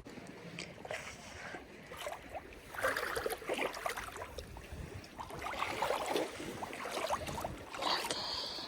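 Shallow seawater sloshing and splashing in uneven surges, with many small crackling splashes.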